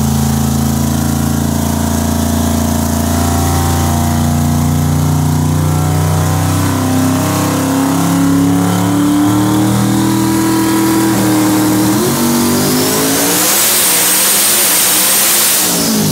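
Twin-turbo 438 cubic-inch billet LS small-block V8 of a Corvette C6 drag car making a pull on a hub dyno. The loud engine note climbs slowly in pitch, then faster over the last few seconds while a rising turbo whistle comes in over it.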